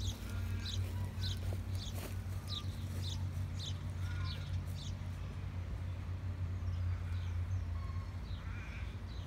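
A bird calling in short, high, falling chirps about twice a second, fading after about five seconds, over a steady low hum.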